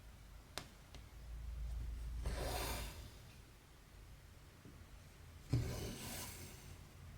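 Embroidery thread drawn through cross-stitch fabric: two soft swishes of the thread pulling through, with a light click early on and a knock just before the second pull.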